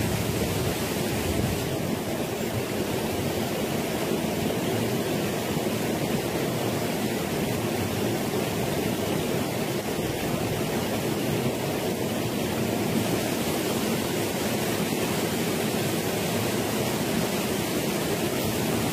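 Water of a small waterfall on a rocky stream rushing steadily over the stones.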